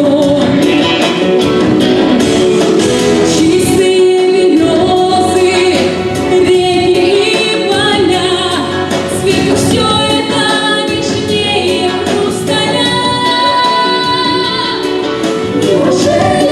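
A song sung with instrumental accompaniment, the sung melody held in long, wavering notes.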